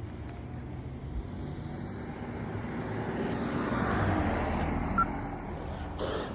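A vehicle driving past on the road, its noise swelling to a peak about four seconds in and then fading, over a low steady hum.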